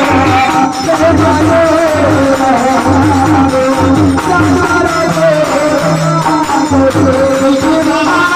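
Devotional folk music of a bhajan group: a wavering melody line over a steady hand-drum beat and rattling percussion.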